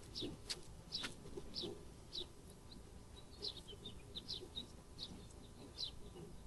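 A small bird chirping repeatedly, short high notes about every half second. Two sharp clicks sound about half a second and a second in.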